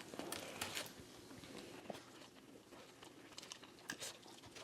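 Faint eating sounds: a few soft crunches and small clicks, scattered and irregular.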